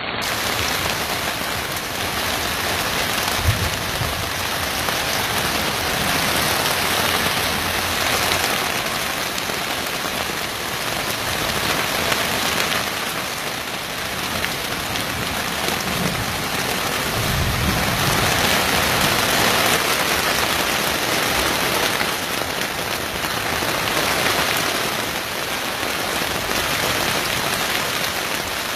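Heavy rain pouring down in a steady downpour. Brief low thumps or rumbles come a few seconds in and again about halfway through.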